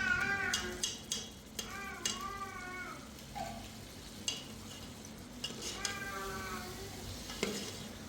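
A cat meowing three times, each call short and bending in pitch, with scattered sharp clicks and clinks between the calls.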